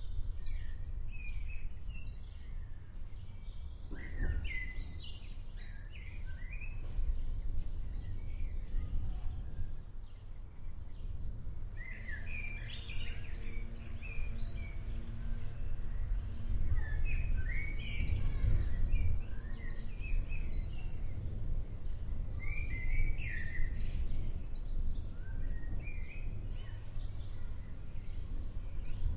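Birds chirping and calling in repeated short bursts over a steady low rumble. A faint steady hum with several tones comes in for a few seconds around the middle.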